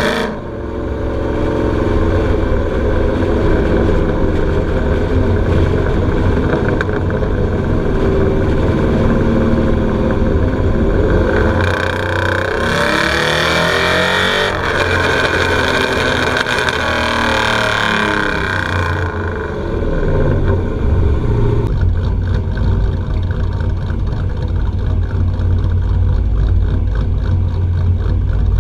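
Cammed 5.3-litre V8 of a 2003 Chevrolet Silverado, uncatted through headers, true dual exhaust and a Magnaflow muffler, running with an uneven low beat. About twelve seconds in, the exhaust note rises and grows louder and brighter for about seven seconds, then falls back to the low uneven note.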